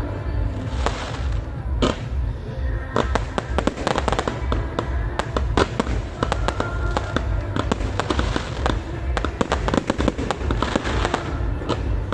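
Fireworks display: many shells bursting and crackling in rapid succession, with music playing underneath.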